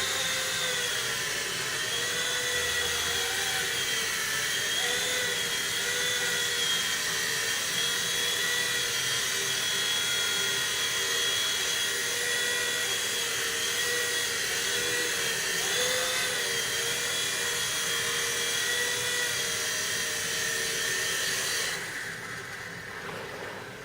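V911 micro RC helicopter's small electric motors and rotors running with a steady high whine that wavers slightly in pitch, then dies away near the end.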